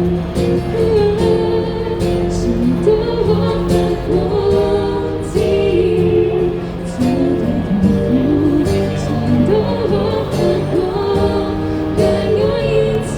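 A band playing a song live, with a lead singer's melody over sustained instrument chords and a steady percussive beat.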